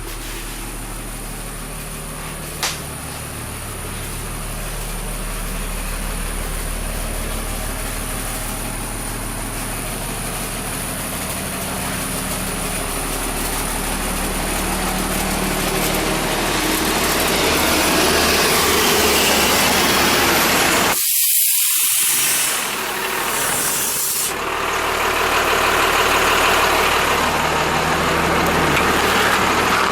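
A 1995 Blue Bird TC2000 school bus's 5.9L mechanical Cummins diesel idling steadily. There is a sharp click a few seconds in, and a loud rush of hissing air runs for several seconds past the middle.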